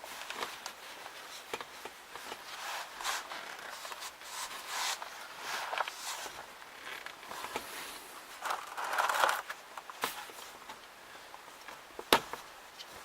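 Irregular rustling, scraping and clicking of objects being handled, with one sharp click near the end.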